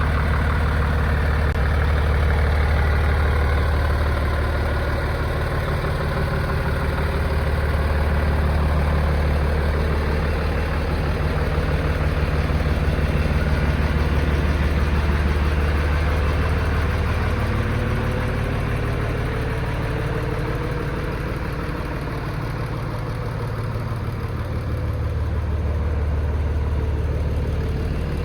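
Diesel engine of a Scania P93 six-wheel hooklift truck running steadily at idle, a deep even hum that eases off somewhat in the middle and comes back near the end.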